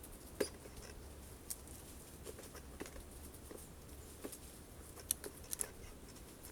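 Birds pecking sunflower seeds at a feeder: sharp beak taps and clicks at irregular intervals, about ten in all, with a quick cluster near the end.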